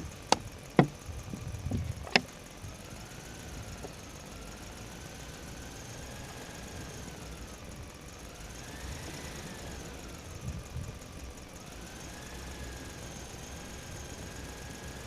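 A small electric motor running faintly, its whine slowly rising and falling in pitch, after a few sharp clicks in the first couple of seconds.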